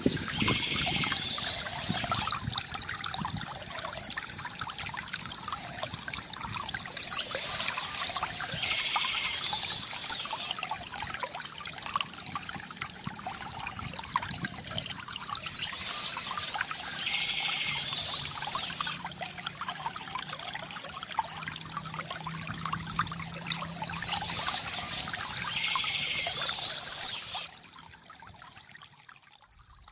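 A small stream trickling and pouring steadily. Its level drops sharply near the end.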